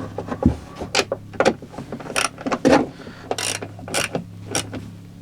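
Ratchet wrench clicking in short, irregular bursts as the nuts holding a car door check strap are run down tight.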